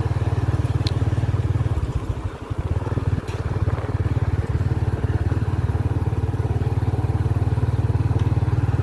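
Motorcycle engine running steadily on the move, its low throb easing off briefly about two seconds in.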